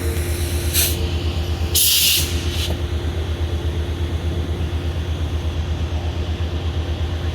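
Metrolink commuter train standing at the platform, its diesel locomotive idling with a steady, rapidly pulsing low rumble. Two short hisses of air are let off about a second and two seconds in.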